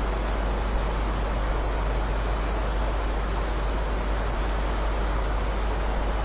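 Steady heavy rain, an even hiss of falling water with a constant deep rumble underneath.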